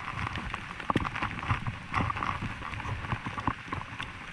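Heavy rain, with irregular close knocks from drops and handling on the phone.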